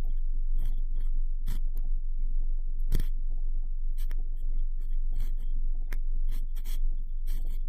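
Cotton swab swirling and rubbing inside the ear of a binaural microphone: irregular scratchy crackles over a steady low rumble, the sharpest crackle about three seconds in.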